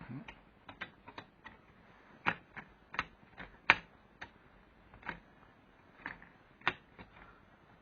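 Light, irregular clicks and taps of the thin metal cover of an industrial LCD panel being handled and fitted back into place, with one sharper click just before the middle.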